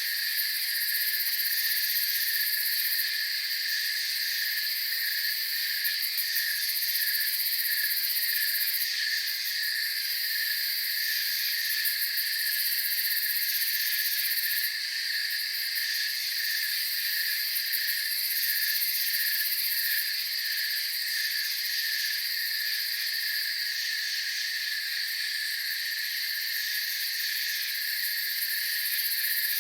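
Night insect chorus of crickets chirping: an even, pulsing chirp mixed with a steadier high trill. A very high-pitched insect buzz drops out and comes back every few seconds.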